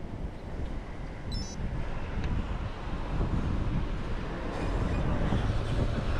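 Wind rushing over the microphone of a bicycle-mounted action camera while riding, with low road rumble, growing louder toward the end. A brief high chirp sounds about a second and a half in.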